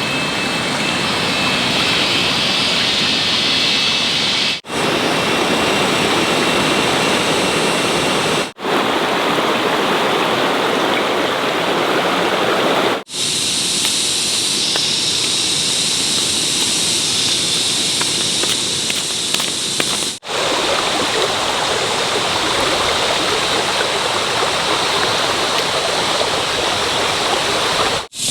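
Steady rushing noise of running water, breaking off briefly four times.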